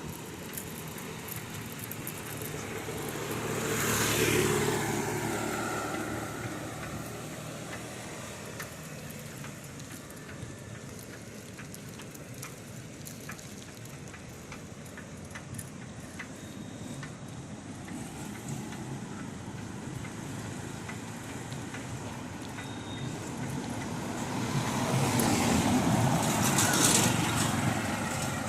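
Road traffic: two motor vehicles pass close by, one about four seconds in and another near the end, each swelling up and fading away over a steady background of traffic noise.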